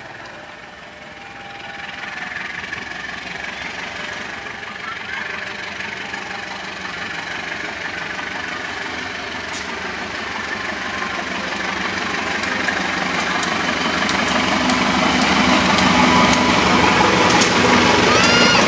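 Diesel-electric locomotive hauling a passenger train, its engine growing steadily louder as the train approaches and passes. Sharp clicks of the wheels over the rails come in the second half, and a brief squeal sounds near the end.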